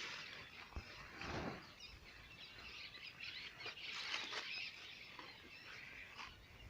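Faint, scattered bird chirps and calls, busiest around four seconds in.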